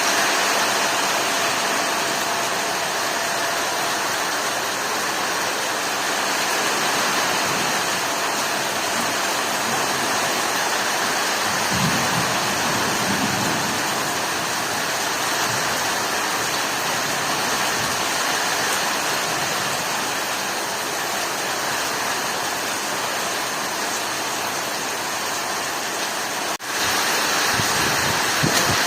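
Heavy rain pouring steadily, a dense, even hiss with a couple of faint low rumbles; it cuts out for an instant near the end, then carries on.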